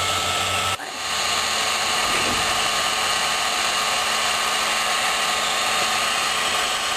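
Wagner hot air gun blowing steadily as it heats a tank decal to soften the adhesive, with a brief dip in level a little under a second in.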